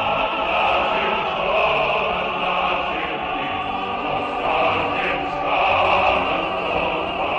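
Choir of an ensemble singing, with sustained voices that go on without a break.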